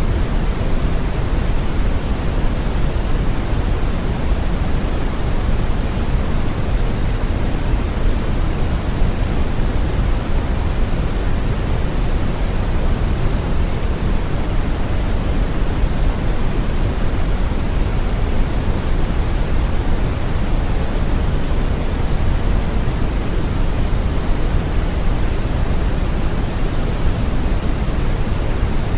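Brown noise: a steady, even hiss-like rumble with most of its weight in the low end and little in the highs.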